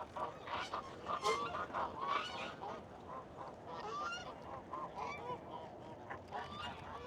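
A flock of geese honking, many short calls overlapping and repeating.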